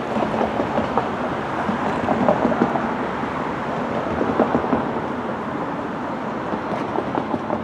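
NJ Transit diesel locomotive and its passenger train running along the track: a steady rumble with many small irregular clicks.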